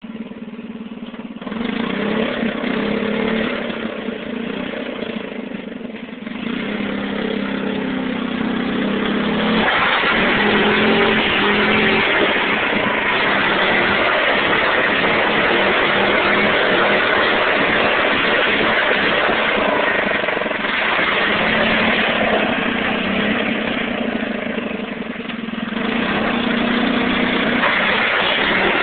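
Homemade tractor's engine running while pushing gravel, revving up about ten seconds in and working hard under load, with a brief dip near the end.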